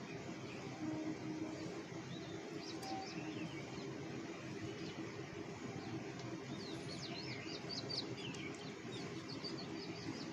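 Small birds chirping, with a quick run of short, high chirps in the second half, over a steady low background rumble.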